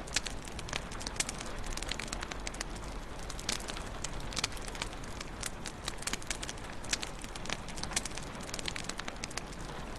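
Wood fire crackling in a fireplace: a steady bed of hiss with many irregular sharp pops and snaps.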